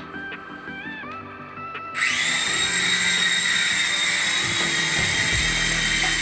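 A small electric motor spins up abruptly and runs at a steady high whine. These are the radio-control toy helicopter's motor and rotors running at speed. For the first two seconds a quiet beeping melody plays before the motor starts.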